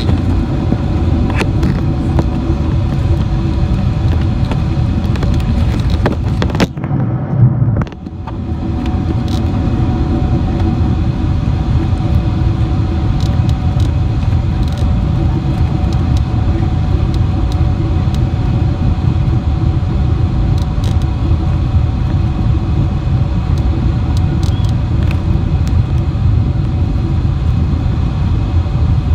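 Steady cabin noise of a jet airliner on approach: a loud low rumble with several steady engine tones over it. About seven seconds in there is a brief louder jolt, then a short dip before the rumble returns.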